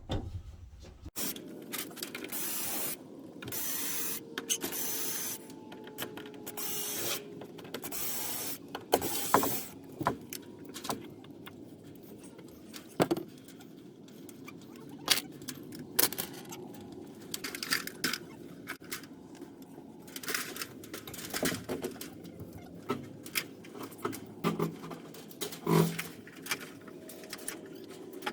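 Cordless drill running in short bursts of a second or two, backing out or driving screws, between clinks and scrapes of screws and metal parts being handled.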